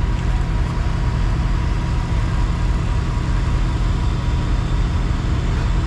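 Diesel engine of a 2011 International semi tractor idling steadily, heard from underneath the truck while its air suspension is being filled.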